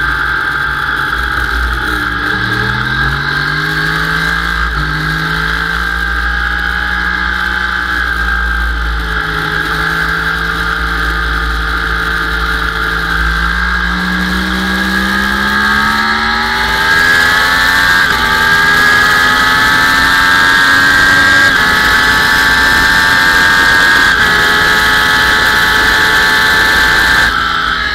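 Sport motorcycle engine heard from on board, held at steady revs, then rising in pitch as the bike accelerates hard down a straight, with a brief step at each upshift, over a steady wind rumble on the microphone.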